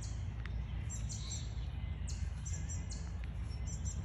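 Songbirds chirping: short high phrases of quick notes repeating about once a second, over a steady low rumble.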